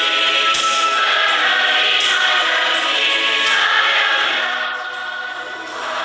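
Church congregation singing a hymn together in harmony, many voices holding long notes; the singing eases off briefly about five seconds in, between phrases, then comes back in.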